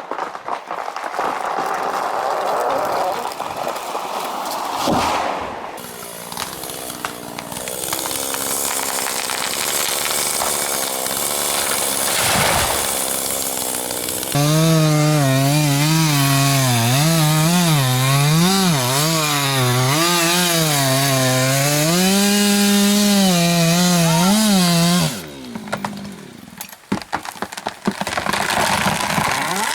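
Chainsaw running and cutting wood. The engine note rises and falls as the chain bites, and it drops away for a few seconds near the end before picking up again.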